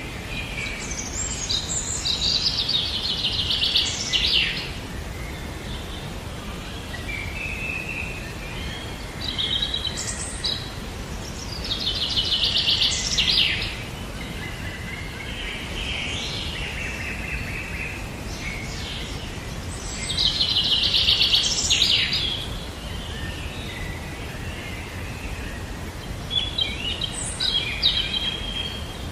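A songbird singing, repeating a rapid trilled phrase of two to three seconds about four times, with shorter chirps between, over a steady background hiss.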